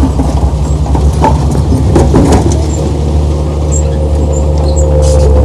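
Heavy earthmoving machine's diesel engine running steadily under load, a deep hum, with a steady whine joining about three seconds in.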